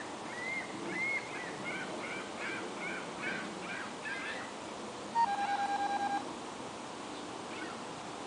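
A bird singing a run of repeated slurred whistled notes, about two a second, over the first four seconds. About five seconds in, a loud electronic beep at one pitch, pulsing rapidly, for about a second.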